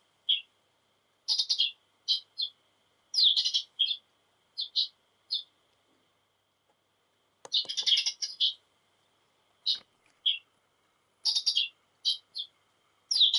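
Sparrow-call capsule toy playing recorded house sparrow chirps through its small speaker. The chirps come in short bursts of several calls with silent gaps between, over a faint steady electronic tone.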